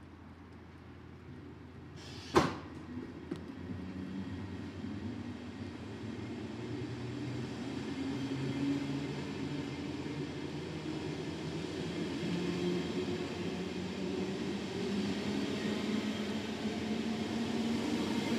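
German InterCity push-pull train with a class 146 Traxx electric locomotive, rolling through a station and growing steadily louder as it comes closer, with the electric drive's steady tones shifting in pitch. A single sharp knock sounds about two seconds in.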